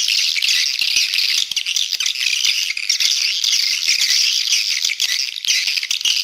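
Edible-nest swiftlets twittering in a dense, continuous high chatter. This is a swiftlet call recording, the lure sound played at swiftlet houses to draw the birds in.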